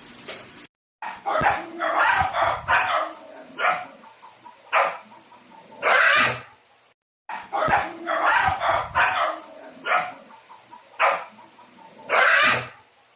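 A dog barking in a run of short barks lasting about six seconds; after a brief silence the same run plays again.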